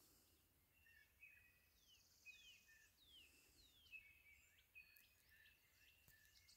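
Faint songbirds singing in woodland: a series of short whistles sliding downward in pitch, repeated about every half second, mixed with short steady chirps.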